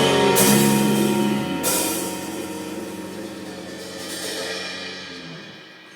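A band's closing chord, with a cymbal crash about a third of a second in and another about a second and a half in, then the chord and cymbals ringing out and slowly fading away.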